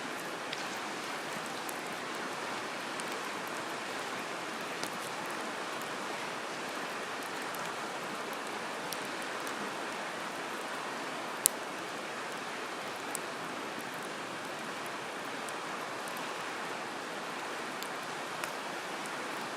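Wood campfire burning: a steady crackling hiss with a few sharp pops, one much louder pop a little past halfway.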